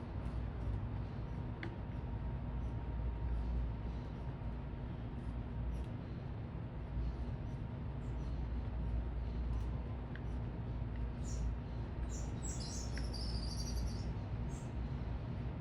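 Small birds giving short, high chirps, with a burst of rapid twittering late on, over a steady low rumble of city traffic.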